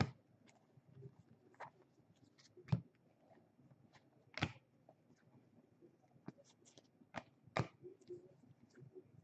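Trading cards being handled and set down: a few faint, scattered taps and flicks, the loudest nearly three seconds in.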